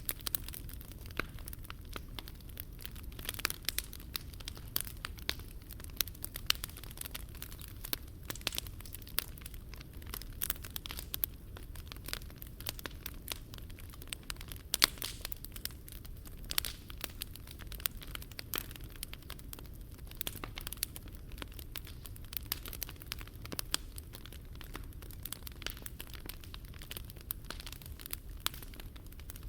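Wood fire burning in a Picogrill 398 fire stand, crackling and popping steadily with many small sharp snaps over a low rumble.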